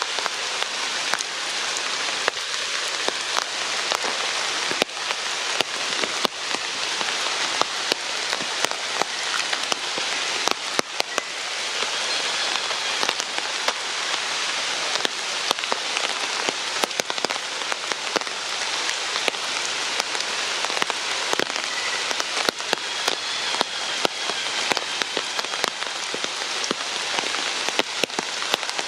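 Steady rain falling, with many separate drops pattering sharply on nearby surfaces.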